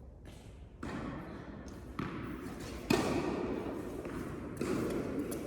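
Tennis ball thuds, bounces and racket hits, in an indoor tennis hall, the sharpest about three seconds in, with people talking quietly.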